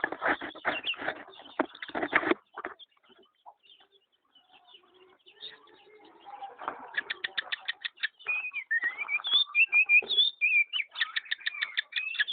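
Pet birds: a flurry of wing flapping in the first two seconds, then after a short lull a fast run of ticking notes and high whistled chirps.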